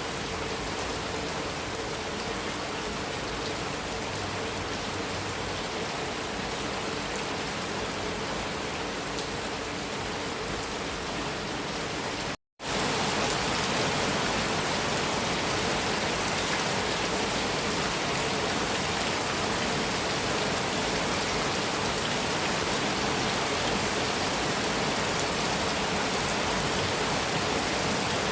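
Heavy rain falling steadily on a metal roof, an even hiss with no thunder. About twelve seconds in the sound cuts out for an instant, then resumes slightly louder, as at a splice in the recording.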